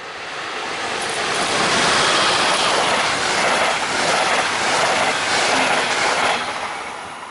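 Regional train of red double-deck coaches hauled by an electric locomotive passing close by: a rushing noise of wheels on rails that builds over the first two seconds, holds steady, then dies away after about six seconds as the train moves off.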